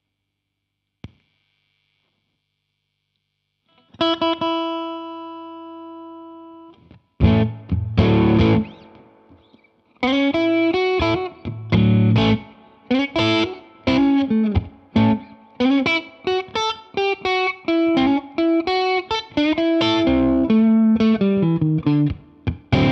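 Electric guitar played through a Jeds Peds Bird Strike preamp pedal, a clone of the Hudson Broadcast: after a near-silent start with a single click, a chord rings out and fades about four seconds in. It is followed by a strummed chord and then a run of picked single-note lines.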